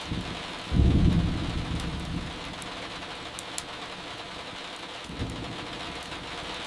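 Steady rain with a low rumble of thunder that swells about a second in and dies away over a second or so, and a weaker rumble near the end. A few faint sharp crackles from burning firewood come in the middle.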